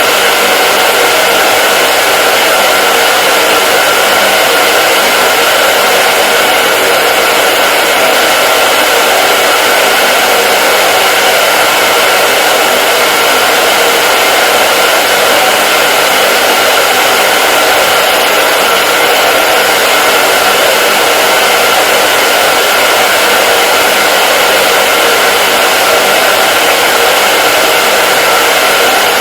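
Hair dryer running continuously, a steady loud airflow rush with a faint motor hum and no change in speed.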